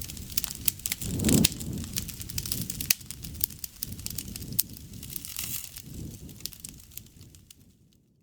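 Campfire crackling and popping, with sharp snaps over a low rumble of burning wood that swells about a second in. The sound fades away near the end.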